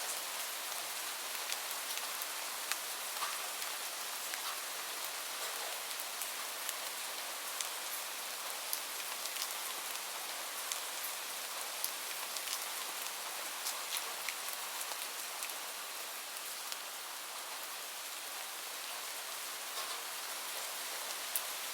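Steady rain: an even hiss of falling rain with many separate drops ticking sharply on a surface.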